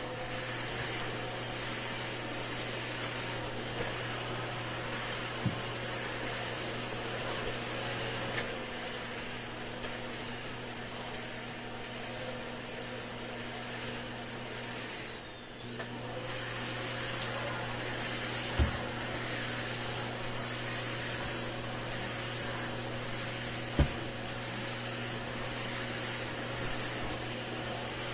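Vacuum cleaner running steadily with a high motor whine. About halfway its sound dips and the whine sags briefly before picking back up. There are a few short sharp knocks in between.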